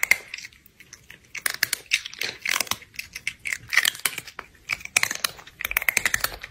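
Someone chewing and crunching food: irregular crunches and mouth clicks in quick clusters, with short pauses between them.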